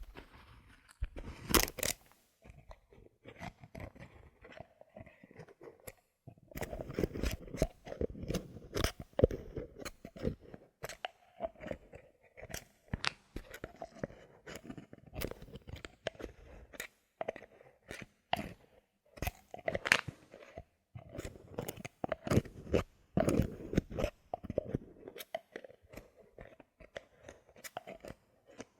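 Bottle caps handled close to the microphone for ASMR: a steady string of irregular sharp clicks, taps and crunchy crackling, busier in dense runs.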